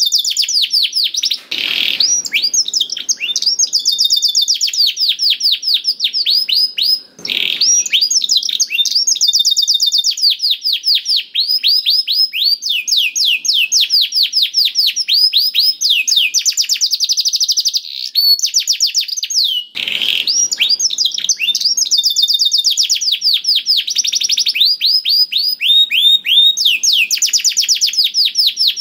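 Domestic canary singing without pause: long rolling trills of fast, high repeated notes, broken by three brief harsh rasps about 2, 7 and 20 seconds in.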